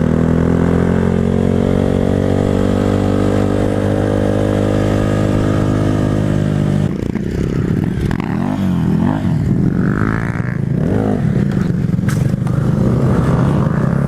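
Motorcycle engine running at a steady pace, its pitch creeping slowly upward. About seven seconds in, the revs start rising and falling repeatedly.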